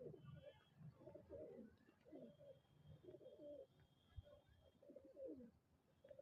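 Pigeon cooing: a quiet run of low, wavering coos, one after another about every half second to second. A faint, thin, high steady tone is held for a couple of seconds in the middle.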